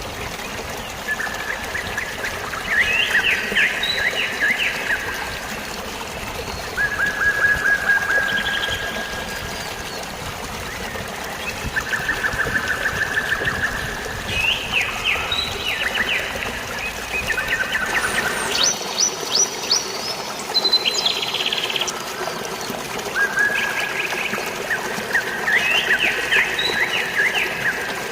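Birds singing fast trills and chirps, one phrase after another every couple of seconds, over a steady rush of flowing water. About two thirds of the way in, the deep rumble of the water falls away and the birds carry on.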